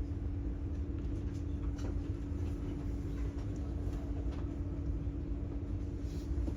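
Inside a moving passenger train carriage: a steady low rumble with a constant hum and a few faint clicks.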